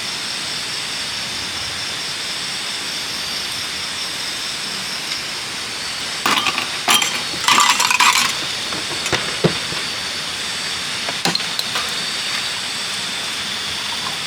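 Steady hiss of running water, with a cluster of clinks and knocks from handled hard objects about six to eight seconds in and a few single clicks later.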